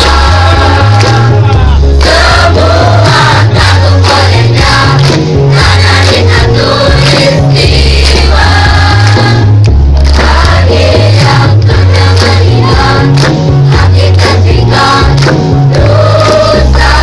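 Student choir singing together over an accompaniment with a heavy bass line that steps from note to note underneath the voices.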